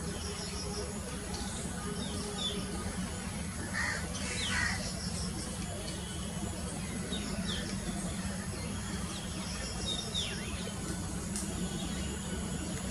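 Wild birds calling: short, sharp calls that drop in pitch, a few seconds apart, with a louder, harsher pair about four seconds in, over a steady low hum.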